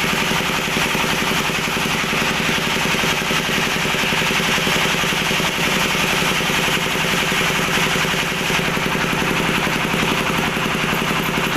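A steady mechanical running sound like an idling engine, with a fast, even pulse and a constant hum, unchanging throughout.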